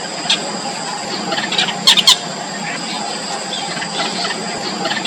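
Yellow bitterns at the nest giving short, high squeaky calls, with a loud double squeal about two seconds in, over a steady high-pitched background hum.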